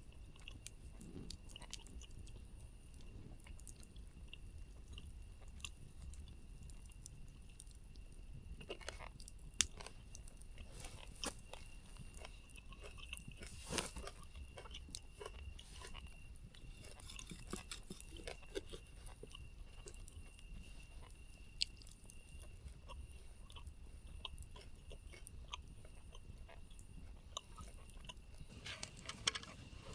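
Quiet chewing with scattered small crunches and clicks, over a faint steady high tone.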